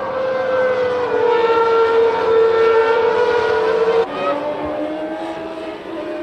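Formula One car engine running at high revs, a steady high-pitched note that drifts slightly down. About four seconds in it breaks off abruptly and a lower engine note takes over.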